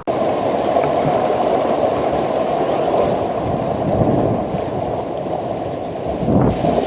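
Steady rush of flowing water, starting abruptly and carrying on evenly throughout.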